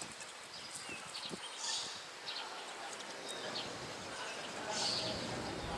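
Short, high-pitched bird chirps and calls scattered over steady outdoor background noise, louder twice, about two seconds in and near the end.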